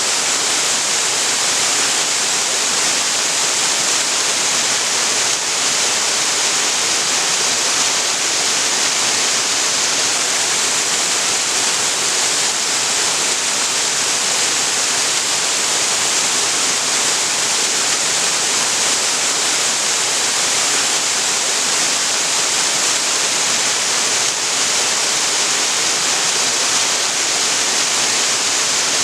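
Waterfall: water falling and splashing in a steady, unbroken rush, loudest in the hiss of the upper range.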